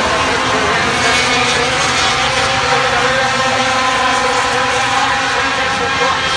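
Super truck race engines running at speed on a paved oval, several engines heard at once in a steady, loud drone as the field circulates.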